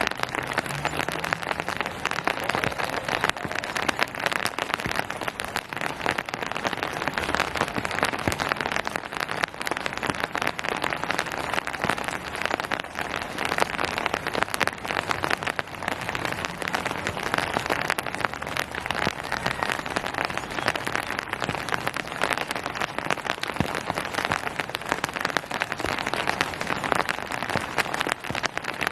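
Steady rain falling on hard surfaces and foliage: a dense, even patter of many small drop impacts.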